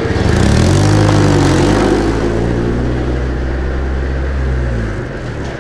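A modified car's engine accelerating away. It climbs in pitch over the first second, is loudest there, holds a steady note, then falls away near the end.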